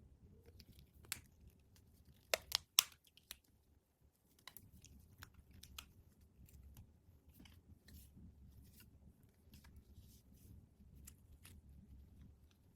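Hands opening small toy packaging: a few sharp clicks and snaps early on, the loudest in a quick cluster of three about two and a half seconds in, followed by many faint ticks and light rustling and tearing of packaging.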